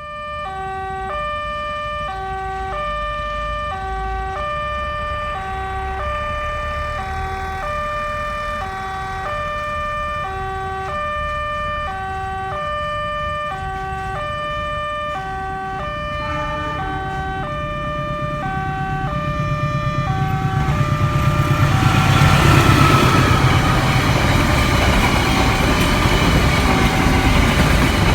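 Railway level-crossing warning alarm sounding an alternating two-tone signal, repeating steadily, warning of an approaching train. From about seventeen seconds in, the train's rumble grows, and from about twenty-one seconds the train passes at speed with a loud rush of wind, drowning out the alarm.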